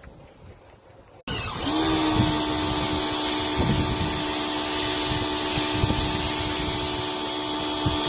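Sun Joe SPX1000 electric pressure washer switching on about a second in, its motor winding up quickly to a steady whine over the hiss of the water spray.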